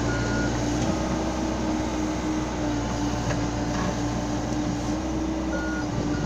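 Komatsu PC70-8 excavator's diesel engine running steadily with a constant drone as it climbs onto a six-wheel dump truck. Short reversing-alarm beeps sound at the start and twice near the end.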